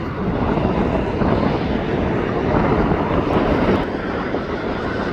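Jet airliner's engines running with a steady, loud rumble, swelling slightly in the middle and easing a little near the end.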